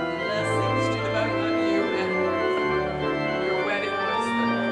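Organ playing: held chords that change every second or so over sustained bass notes.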